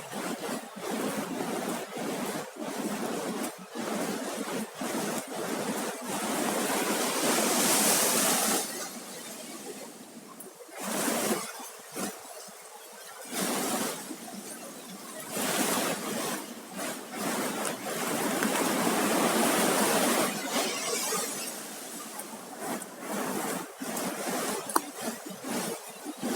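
Surf breaking and washing up the shore, a steady rush that swells louder twice, with short crackles throughout.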